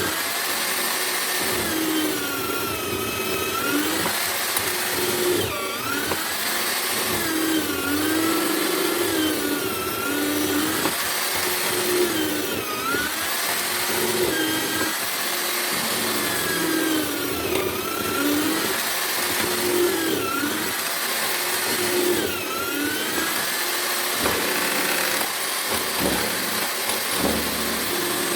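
Electric drill motor of a homemade chisel mortiser running steadily, its pitch dipping and recovering about every two seconds as the chisel plunges into the wood while mortising window-frame stock.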